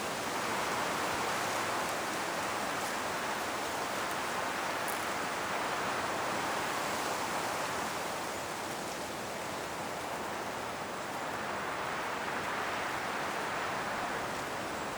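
Strong wind blowing through autumn forest trees, their leaves rustling in a steady rush that swells and eases in slow gusts. A few faint ticks ride on top.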